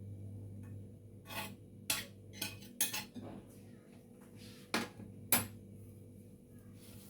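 Kitchen utensils clinking against dishes, about seven separate sharp clinks spread over a few seconds, the loudest near the end, as the tagine is being garnished or served.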